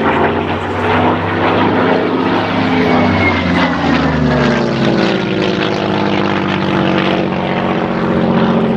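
V12 piston-engined WWII fighter flying past; its engine note drops in pitch as it passes, a few seconds in, then settles into a steady lower drone.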